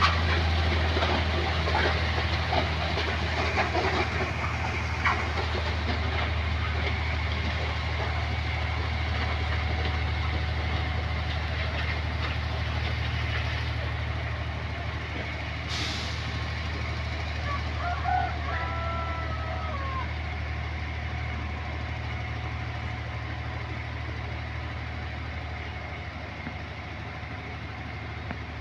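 Diesel locomotive engine running steadily with a deep, even drone, slowly growing fainter.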